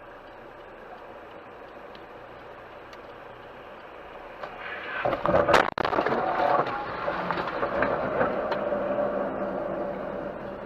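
Steady car driving noise, then about five seconds in a sudden car collision with several sharp impacts, followed by clattering and scraping that slowly dies away.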